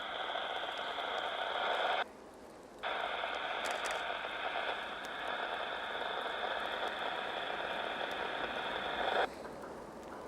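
Two-way radio, most likely a railfan's scanner, putting out hissy, garbled transmissions that cut in and out abruptly. There is a gap of about a second after two seconds, and another near the end.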